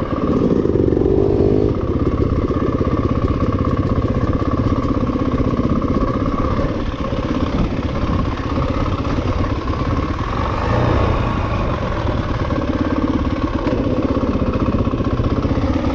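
Dirt bike engine running under throttle during riding, revs rising in the first couple of seconds and then holding fairly steady.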